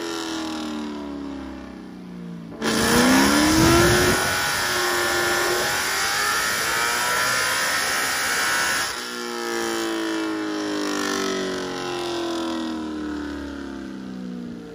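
BMW M3 race car's V8 run on a chassis dyno. The revs fall for the first couple of seconds. About three seconds in the throttle snaps open and the engine pulls hard, its note climbing and holding loud, until the throttle closes about nine seconds in and the revs wind slowly down as the rollers coast.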